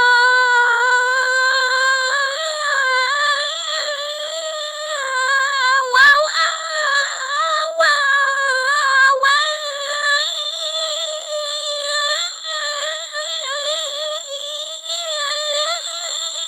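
Synthetic AI voice holding one long, high sung vowel, its pitch wavering gently, with a few brief glitches near the middle and a thin steady high whine behind it.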